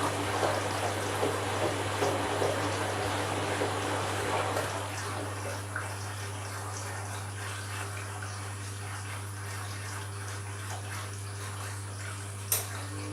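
Candy washing machine on an empty bleaching cycle: water rushing through the machine over a steady low hum. The water noise eases off about five seconds in, and there is a single sharp click near the end.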